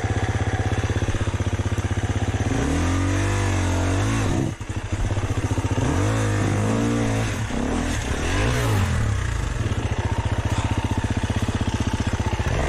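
Dirt bike engine running steadily, revved up and down in a few throttle blips from about two seconds in and again around the middle.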